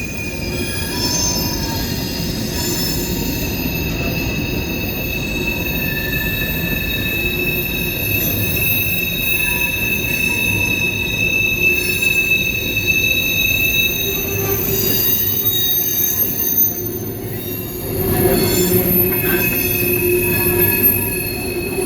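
Empty coal hopper cars of a freight train rolling slowly past, wheels squealing with several steady high-pitched tones over a rumbling roll, a little louder near the end.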